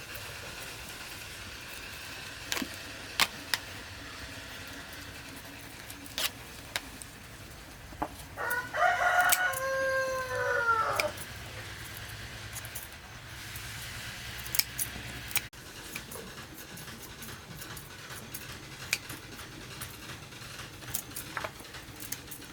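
A rooster crows once about nine seconds in: one long call that drops in pitch at the end. Scattered short clicks and knocks come before and after it.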